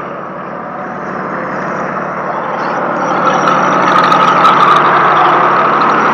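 Tow truck engine running with road noise, growing louder over the first few seconds and then holding steady, with a few faint clicks about four seconds in.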